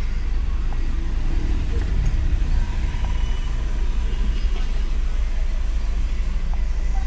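Hyundai i20's engine idling steadily, a constant low rumble.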